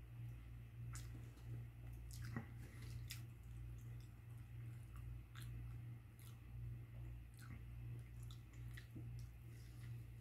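Close-miked chewing of a chicken burger, with scattered small mouth clicks and crunches, over a steady low hum.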